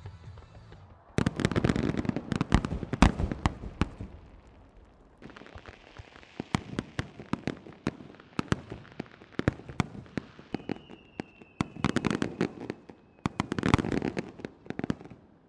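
Japanese starmine fireworks barrage: rapid aerial shell bursts, booms and crackling. It comes in a loud dense volley from about a second in, lighter crackling through the middle with a long high whistle, then another loud volley near the end.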